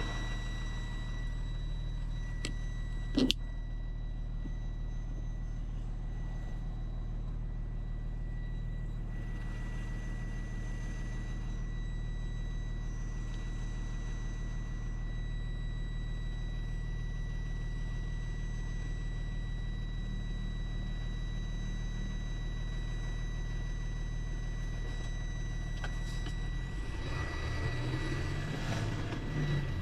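Truck engine running at a steady cruise, heard from inside the cab, with a thin constant high whine over it. A single sharp click about three seconds in, and the engine note shifts in pitch near the end.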